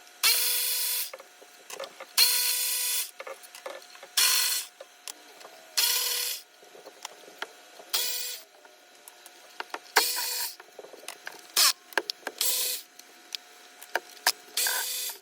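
Power ratchet spinning bolts out in about nine short bursts, each under a second, with a whining motor note and small clicks and knocks between bursts, as the 12 mm intake manifold bolts are run out.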